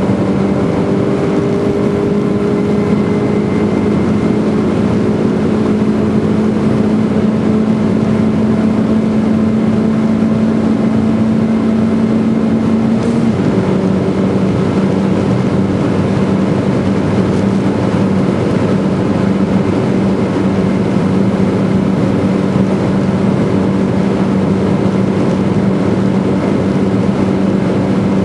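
Schäfer-tuned Mini Clubsport engine at high revs, heard from inside the cabin over wind and tyre noise. Its pitch creeps up, drops suddenly with one upshift about 13 seconds in, then holds steady.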